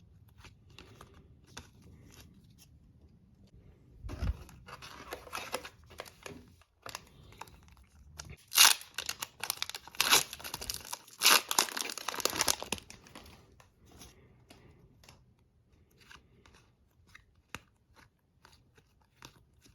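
A hockey card pack wrapper being torn open and crinkled, loudest a little under halfway through, with light ticks of cards being handled before and after.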